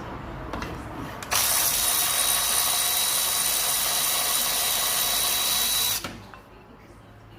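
A handheld power tool running at steady speed for about four and a half seconds, starting abruptly about a second in and cutting off suddenly, as a fastener is worked during gearbox removal.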